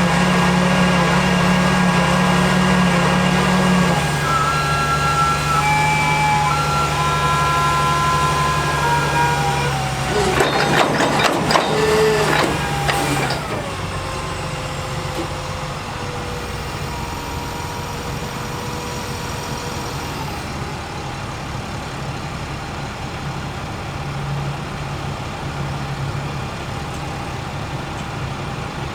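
International DT466 diesel engine of a digger truck running steadily at a raised speed, with a brief noisy clattering stretch about ten seconds in, then settling to a quieter steady idle.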